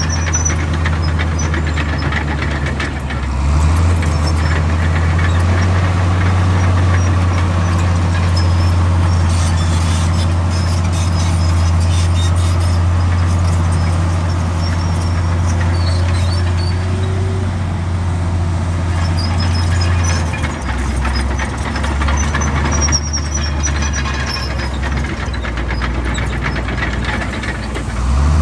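Heavy diesel engine of earthmoving machinery working under changing load, its note rising about three seconds in and dropping back about twenty seconds in, with faint high squeals now and then.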